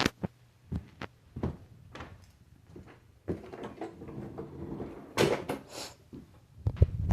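A series of irregular knocks and clunks, with a rustling, scraping stretch in the middle and a louder clatter about five seconds in.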